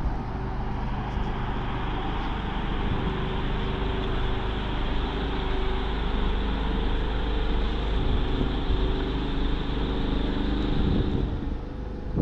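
Road vehicle running close by in a town street: a steady engine hum under a hiss, which drops away shortly before the end.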